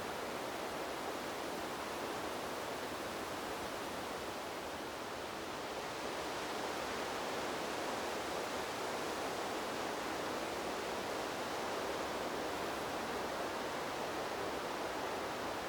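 Wind rushing through trees as a steady, even noise, easing slightly about four seconds in and swelling a little again after six.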